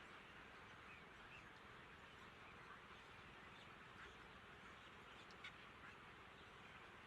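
Near silence: a faint steady outdoor hiss with a few faint, scattered bird calls and a single light tick about five and a half seconds in.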